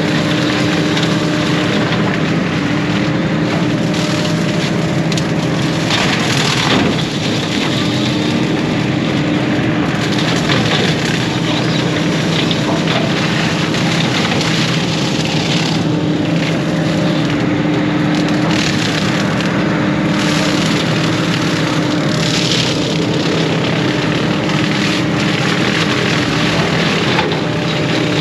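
Heavy diesel machine running steadily under load while brush and small wood are crackled, crushed and snapped by a brush cutter.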